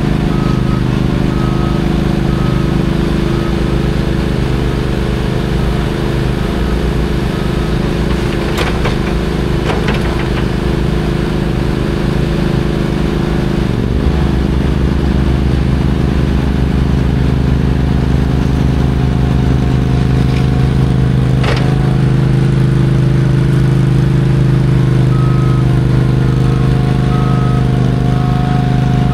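Heavy diesel engine running steadily; its low rumble gets heavier about halfway through. A reversing beeper sounds at the start and again near the end, with a few sharp knocks in between.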